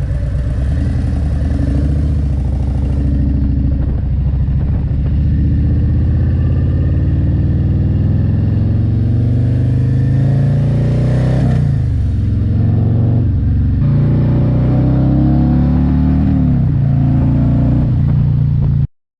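Harley-Davidson Road Glide's Milwaukee-Eight 117 V-twin running under way, its note climbing and dropping back several times as the throttle and gears change near the middle. The sound cuts off suddenly near the end.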